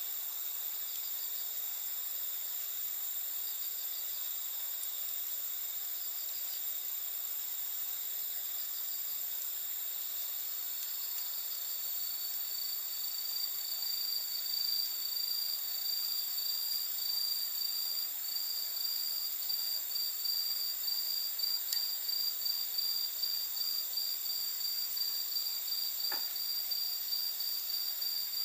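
A steady, high-pitched chorus of night insects such as crickets, with a pulsing trill that comes in about eleven seconds in and grows louder. There is one faint pop near the end.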